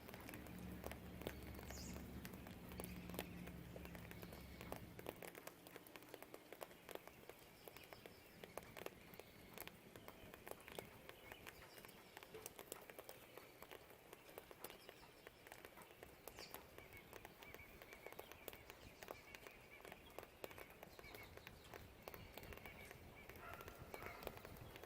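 Rain dripping and pattering outside a window in dense, irregular taps, with a low rumble for the first five seconds and faint birdsong.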